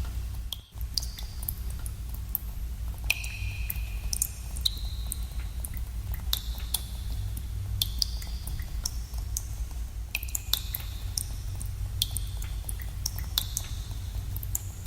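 Water dripping in a cave: irregular drops about two a second, each a sharp plink with a short ringing pitched tail, over a steady low rumble. The sound briefly drops out under a second in.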